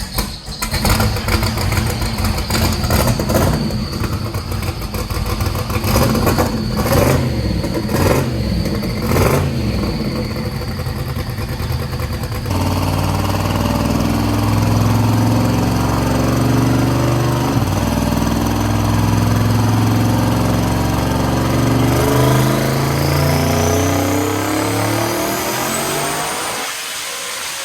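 Twin-turbo Corvette Z06 V8 running on a chassis dyno. For about the first twelve seconds it idles roughly and blips its revs. About halfway in it suddenly changes to a steady, loud run under load. A high rising whine builds in the last few seconds before the engine comes off near the end.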